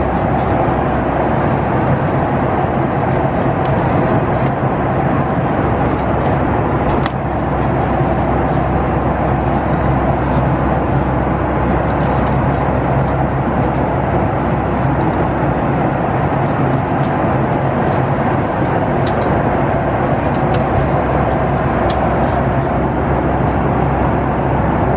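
Steady cabin noise of a Boeing 737 MAX 9 in flight: an even rush of airflow over a constant low engine hum, with one brief dip about seven seconds in.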